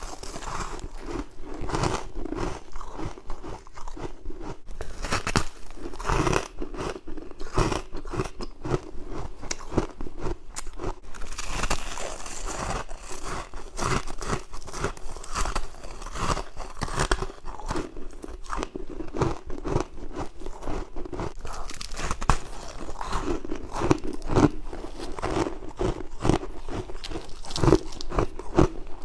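Close-up crunching of a person biting and chewing white humidifier frost: many crisp, irregular crunches in quick succession.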